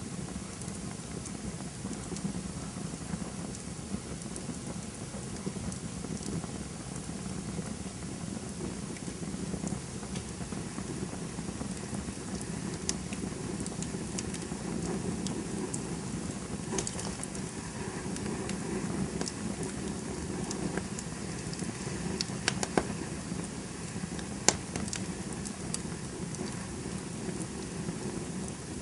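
Campfire burning with a steady low rush of flames and scattered sharp crackles and pops, a few louder pops near the end.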